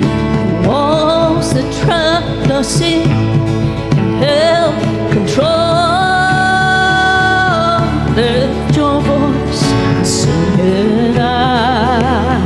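Church worship band playing a gospel-pop song, with a lead voice singing wavering lines and holding one long note in the middle.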